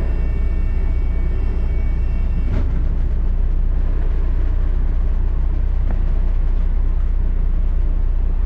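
Inside a moving London double-decker bus: a steady, deep rumble of engine and road. A faint high whine of several tones stops about two and a half seconds in, with a single knock at that moment and a few light rattles after.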